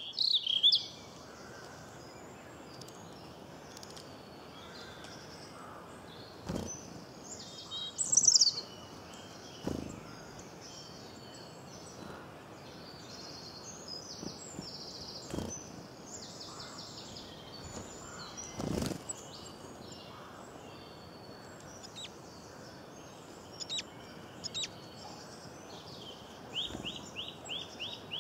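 Small birds chirping and trilling over a steady background hiss, with a louder call about eight seconds in and a quick run of repeated notes near the end; a few faint thumps.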